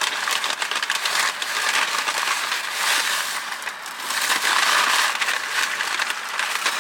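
Paper takeout bag and food wrappers rustling and crinkling close by, as the contents of a fast-food order are gone through and checked.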